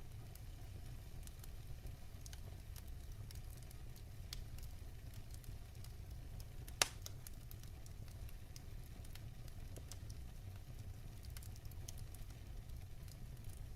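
Wood fire burning in a fireplace, crackling with scattered small snaps over a low steady rumble, and one sharp pop about halfway through.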